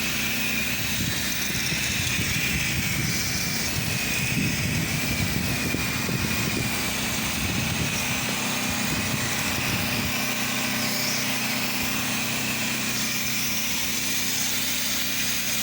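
Gas-engine pressure washer running steadily, with the hiss of a fanned spray as chemical pre-treatment is applied to a concrete driveway.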